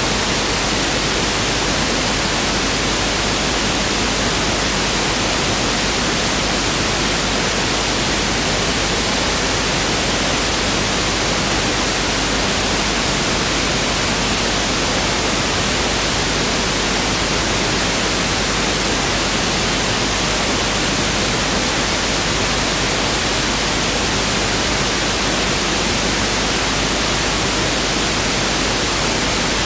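Pink noise test signal (1/f noise): a steady, even hiss across the whole range, unchanging throughout.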